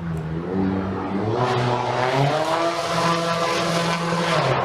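A motor vehicle's engine running close by and accelerating, its pitch rising about a second in and then holding steady, cut off abruptly near the end.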